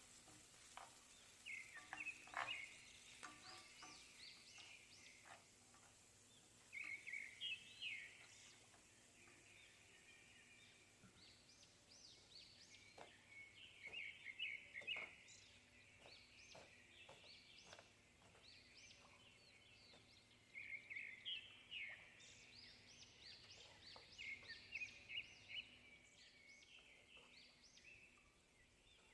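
Faint birds chirping in repeated bursts of short rising and falling calls, with a few faint clicks between them.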